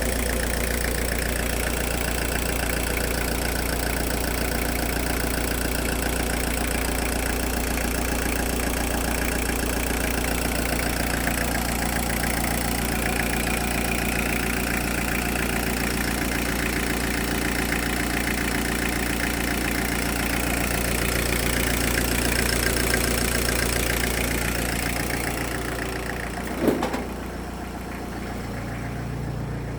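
Toyota 2C-TE 2.0 litre four-cylinder turbodiesel engine running steadily. Near the end the sound grows duller and there is one sharp click.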